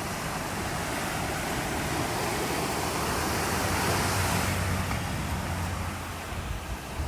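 Sea surf washing ashore, with a strong breeze buffeting the microphone; the wash swells about a third of the way in and eases again, with a low wind rumble near the end.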